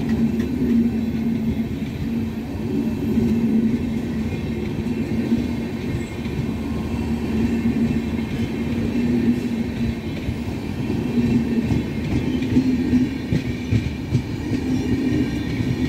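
Indian Railways express passenger coaches rolling past as the train departs: a steady, continuous rumble of wheels on rail.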